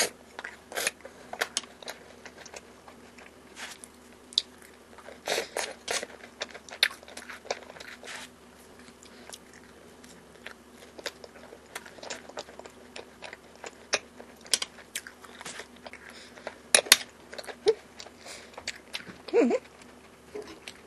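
Close-up eating sounds: chewing and biting yakgwa (Korean honey cookie) topped with vanilla ice cream, with many scattered wet mouth clicks and smacks. A faint steady hum runs underneath.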